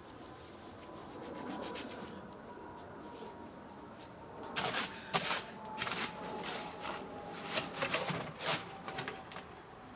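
Rough scraping strokes of a tool working through cement mix, a run of short irregular scrapes starting about halfway in.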